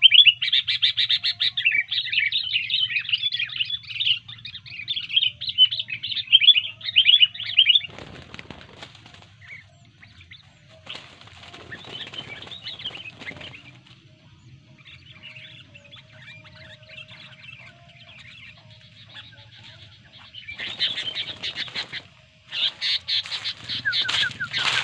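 Sooty-headed bulbul giving fast, loud, agitated chattering calls while being disturbed. The song breaks off after about eight seconds for bursts of wing flapping, three times, with softer calls in between, and the loud chattering resumes near the end.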